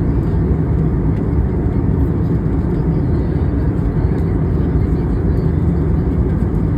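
Aeroplane cabin noise in flight: a steady, loud, low rush of engine and airflow noise.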